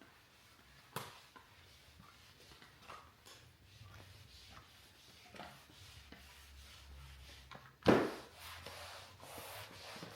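Mop rubbing and swishing across the floor, with scattered light knocks and one louder thump about eight seconds in.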